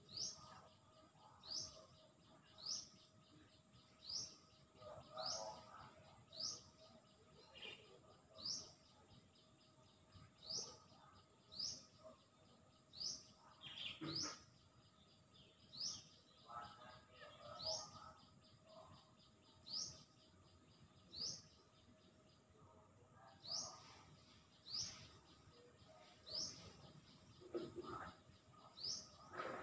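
Faint bird call: a short rising chirp repeated evenly about once a second, over a faint steady high whine.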